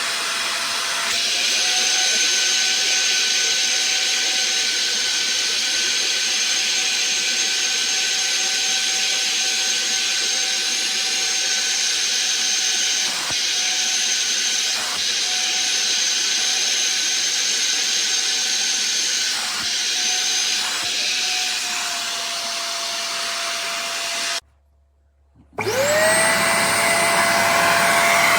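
A 450 W wet upholstery vacuum cleaner's motor runs with a steady high whine and strong suction hiss, dipping briefly now and then. Near the end it cuts out for about a second, then starts again, its whine rising as the motor spins up.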